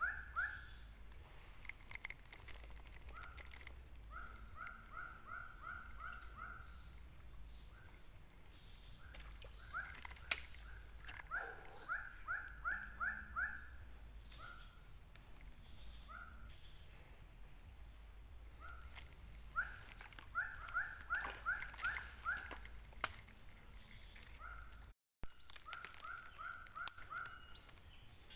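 A bird calling in runs of about six quick rising notes, each run lasting under two seconds and repeating every few seconds. Under it is a steady high-pitched insect drone.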